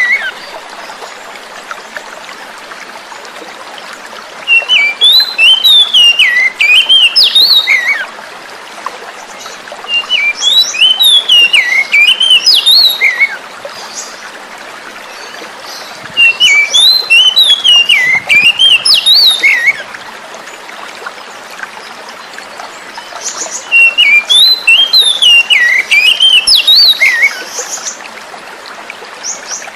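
Oriental magpie-robin (kacer) singing four phrases of rapid, varied whistles and chirps, each about three to four seconds long with short pauses between. A steady hiss of flowing water runs underneath.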